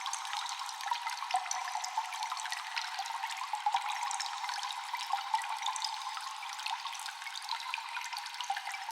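Water dripping steadily in a cave, with many irregular drops falling over a continuous trickle of running water, echoing.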